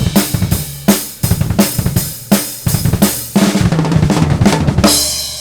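Drum kit playing a fast beat with snare, bass drum and cymbals as intro music. It ends on a cymbal crash about five seconds in that rings out and fades.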